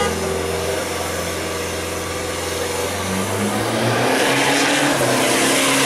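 Toyota Kijang Innova's engine held at steady revs on the drag strip start line, then revving up as the car launches about four seconds in.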